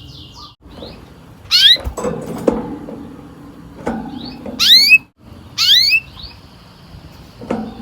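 Domestic canary singing: loud, quickly rising whistled notes, three times, with softer, lower chirps between them.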